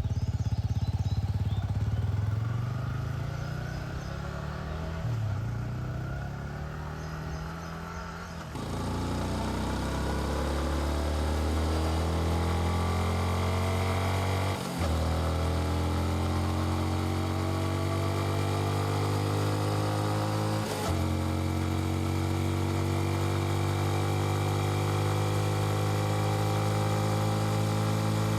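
Yamaha XSR155's single-cylinder engine and exhaust under way. The note stays lower and uneven for the first eight seconds or so, then gets louder and climbs steadily in pitch under acceleration. It breaks off briefly twice, at what sound like upshifts, and keeps rising after each.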